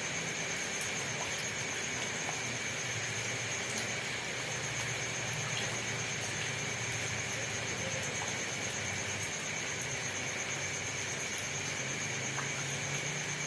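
Steady rain, an even hiss with a few faint drop ticks, over a low rumble and a steady, pulsing high-pitched tone.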